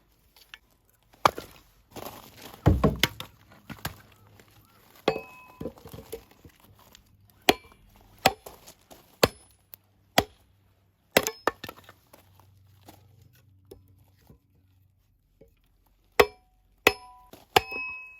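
Firewood being split with an axe: about a dozen irregular sharp wooden knocks, the heaviest a low thump about three seconds in. Several later knocks ring briefly with a clink, like dry split pieces striking each other.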